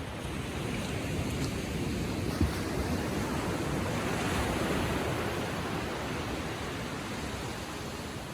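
Ocean waves washing gently onto a beach: one wave's wash builds to its loudest about halfway through, then eases back. A brief low thump about two and a half seconds in.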